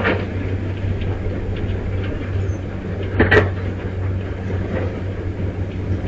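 Gusty wind on the microphone, a steady low rumble, with two sharp knocks or rattles, one at the start and one about three seconds in.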